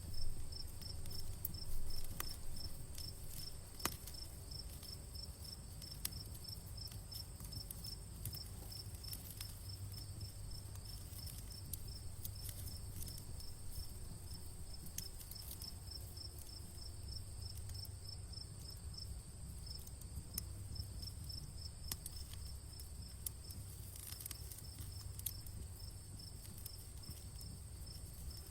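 Crickets chirping in a steady, evenly pulsed rhythm, over the scattered pops and crackles of a wood campfire and a low rumble. There are a couple of louder pops about a second and two seconds in.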